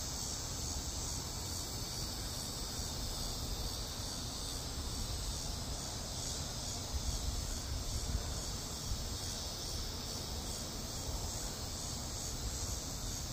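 Crickets chirping in a loud, steady chorus, with a low rumble underneath.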